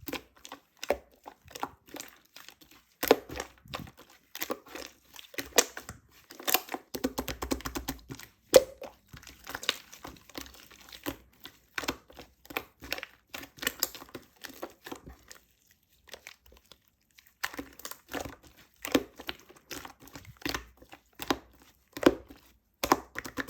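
Hands pressing, stretching and poking slime, making a dense run of irregular crackling and popping clicks, with a pause of about a second and a half past the middle.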